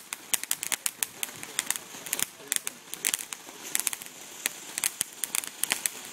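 Several ground fountain fireworks spraying sparks: a steady hiss broken by rapid, irregular crackling snaps.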